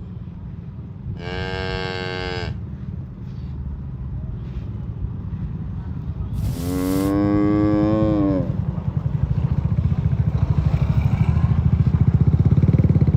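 Cattle mooing twice: a short, higher moo, then a longer, lower moo that drops in pitch at the end. A low rumble runs underneath and grows louder and pulses evenly in the last few seconds.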